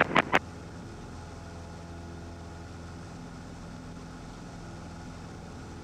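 Cessna 150's four-cylinder Continental O-200 engine droning steadily in flight, a constant hum with an even pitch. A few short clicks at the very start close off the preceding radio transmission.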